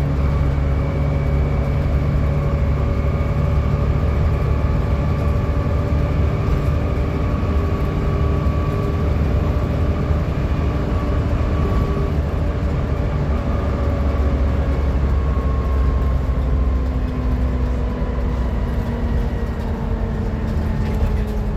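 Volvo B7TL bus under way: a steady low engine drone with a loud vacuum-cleaner-like 'hoover' whine over it, the whine's pitch falling slowly in the second half.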